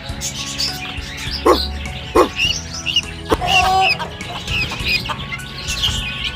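Chickens clucking, with a few louder calls in the middle, over small birds chirping and a steady background music track.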